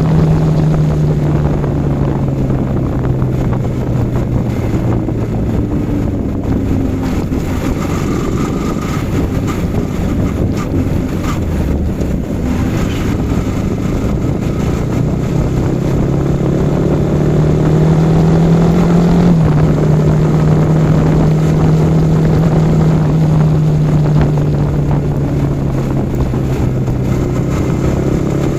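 Yamaha R15 V4's single-cylinder engine under way with wind rushing past. The engine note falls over the first few seconds, holds low, then climbs again and drops suddenly about two-thirds of the way through, as on an upshift.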